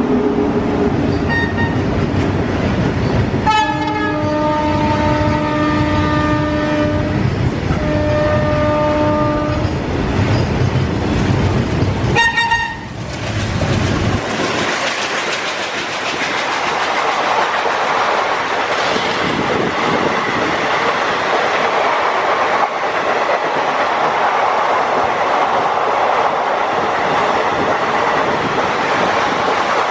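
Indian Railways locomotive horn: several long blasts and a short toot about twelve seconds in. It is followed by a train running past with a steady rush and clickety-clack of wheels over rail joints, with heavy rain.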